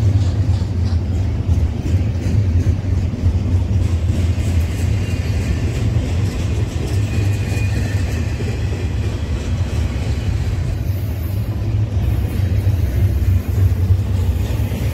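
Double-stack intermodal freight train rolling past on its well cars: a steady, loud rumble of steel wheels on the rails.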